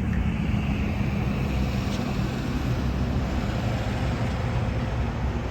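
Steady road-vehicle noise: a continuous low rumble of traffic with no breaks or sharp events.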